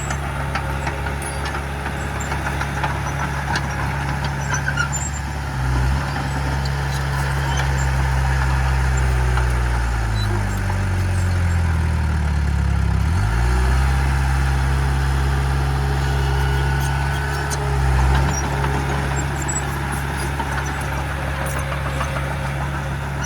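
Heavy earth-moving machine's diesel engine running steadily, its pitch sinking over a few seconds about halfway through and then climbing back up.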